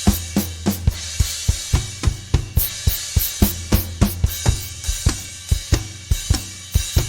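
Drum kit playing a steady, fast beat: kick and snare strikes about three to four a second, with hi-hat and cymbals ringing over them.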